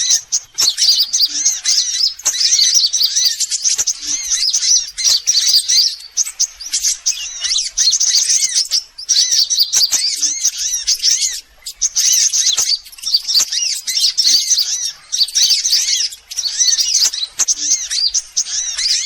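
Sunbirds chirping and trilling in a fast, nearly unbroken high-pitched chatter with a few brief pauses: a lure call used to draw sunbirds in.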